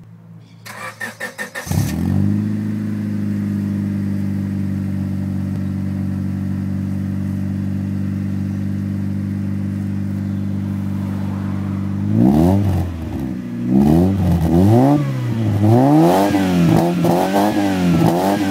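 Exhaust of a 1999 Honda Civic EK hatchback's D16 four-cylinder through an XForce Cannon muffler with a 2-inch inlet: the starter cranks for about a second, the engine catches at about two seconds and idles steadily, then from about twelve seconds in it is revved repeatedly, each rev rising and falling in pitch.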